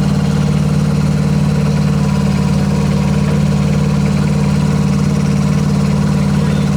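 Kubota diesel engine of a Rippa R10 mini excavator running steadily at constant speed.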